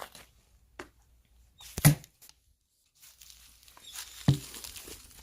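Axe blows striking firewood: two heavy, sharp chops about two and a half seconds apart.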